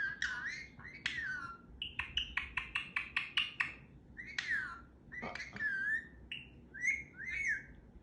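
Pet parrot chattering and whistling: a jumble of warbling calls that glide up and down in pitch, with a quick run of about eight short clicky notes a second about two seconds in.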